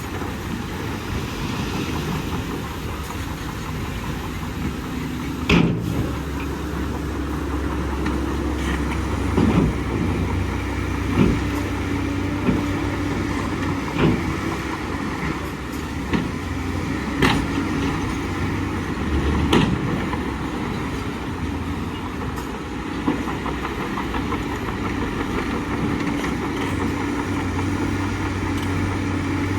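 Bulldozer's diesel engine running steadily with a low drone, its pitch shifting about six seconds in, while sharp knocks come every few seconds.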